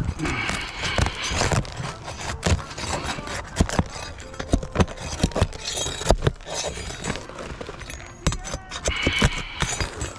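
Roofing shingles being pried loose and their nails pulled: a steady run of scraping, sharp clicks and knocks from a metal tool working under the shingles.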